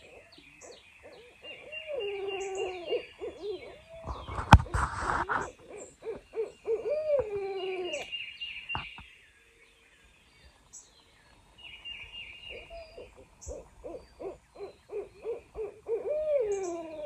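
Owls hooting in long, wavering series that fall in pitch at the ends, with two calls overlapping at times. Songbirds sing faintly higher up, and a short loud rustle with a sharp knock comes about four seconds in.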